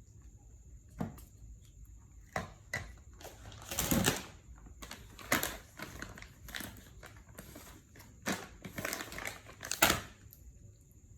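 Irregular crinkling, crunching and knocking from food being handled and eaten close to the microphone, loudest about four seconds in and again near the end.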